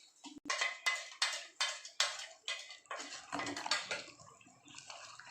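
Raw chicken pieces being mixed by hand with a wet marinade of onion-ginger-garlic-tomato paste, ground spices and mustard oil: a steady run of short mixing strokes, about two or three a second, easing off near the end.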